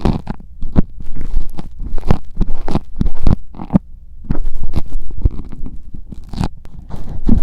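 A metal ear pick scraping and scratching against a mini microphone, as in ear-cleaning ASMR: loud, irregular rasping strokes, several a second, with a short lull about four seconds in.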